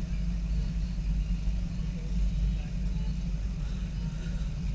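Steady low rumble of car engines running, with faint voices in the background.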